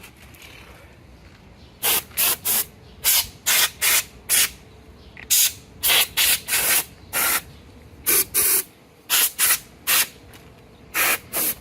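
Cleaning spray squirted in about twenty short bursts in quick succession, starting about two seconds in.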